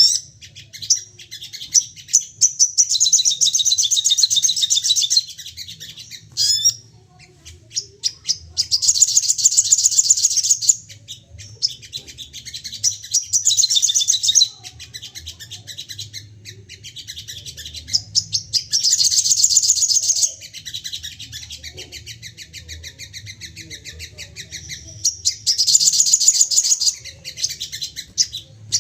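Sogon birds calling in loud bouts of rapid, high-pitched chattering, each lasting one to three seconds and coming about five times, with softer quick ticking calls in between: the agitated, repeatedly 'firing' (nembak) song of an excited sogon. A faint low steady hum runs underneath.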